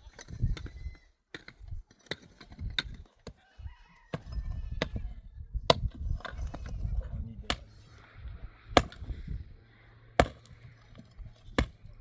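A series of sharp knocks or clacks, about a dozen at irregular intervals of roughly a second, over low handling or wind rumble.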